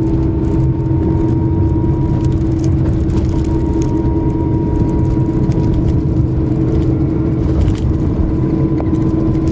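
A car running, heard from inside: a steady low rumble with a constant hum and a few faint ticks.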